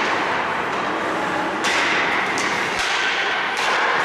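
Ice hockey play: three sharp clacks and scrapes of sticks, skates and puck on the ice, about a second apart, over a steady hiss of rink noise.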